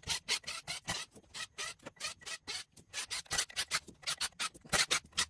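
Ratchet wrench clicking in quick, uneven runs of strokes as the bolts holding a torque converter's halves together are loosened.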